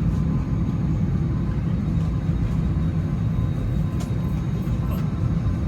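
Steady low rumble of airliner cabin noise inside an Airbus A321neo, with a couple of faint clicks near the end.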